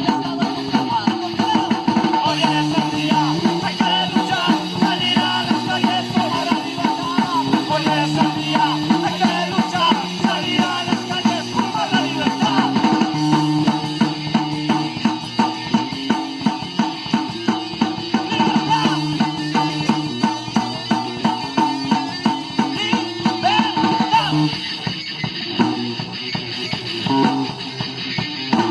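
Rock band playing: a drum kit keeps a steady beat under a stepping bass line and guitar.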